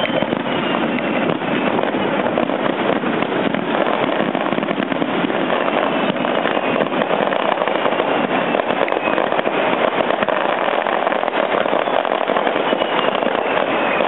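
Fireworks crackling densely and continuously, without any single big bang, with a faint falling whistle near the start and another near the end.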